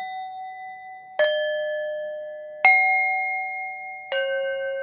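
Bell tones struck one at a time, about every second and a half, three strikes in all, each at a different pitch. Each rings on and slowly fades under the next, as a slow meditation chime pattern.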